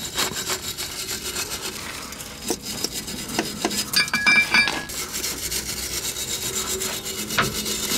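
Wire brush scrubbed back and forth over the end of the original exhaust pipe, a rapid rasping that cleans the tube before the coupling is fitted. A brief ringing tone comes through about halfway.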